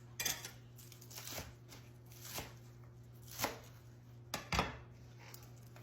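Knife knocking on a cutting board in separate strokes, roughly one a second with a quick pair near the end, as green onion is cut for topping; a steady low hum runs underneath.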